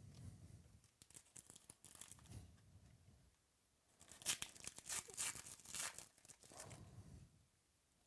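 Trading-card pack wrapper being torn open and crinkled, in two spells of tearing and crackling, the second and louder one starting about four seconds in.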